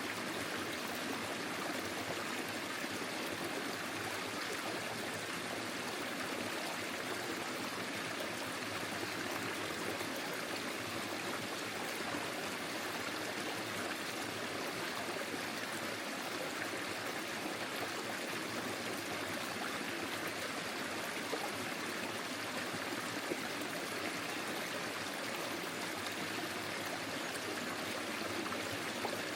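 A small forest stream flowing over stones, a steady rushing and trickling of water.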